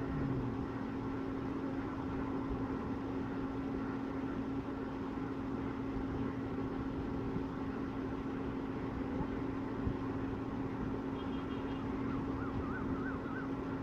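Steady engine drone with a constant low hum over a noisy background, holding level throughout; a faint warbling whistle comes in near the end.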